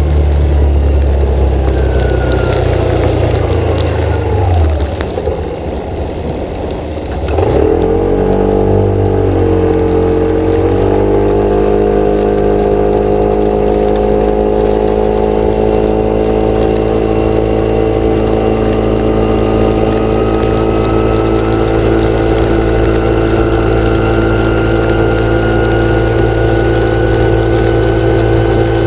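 An engine running. It drops off about four seconds in, picks up sharply at about seven and a half seconds, then runs at a steady speed, creeping slowly higher.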